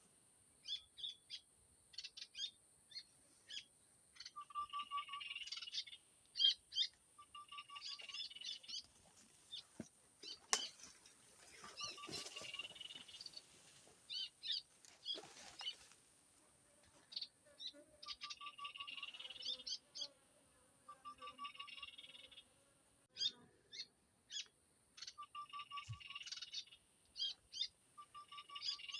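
Small songbird song: a short phrase repeating every few seconds, a quick row of notes followed by high twittering, with single chirps between phrases and a steady high hiss throughout.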